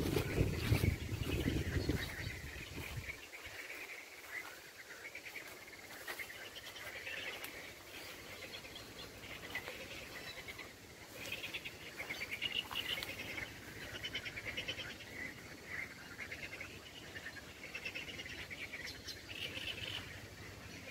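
Small birds chirping and singing on and off, with a low rumble on the microphone for the first three seconds.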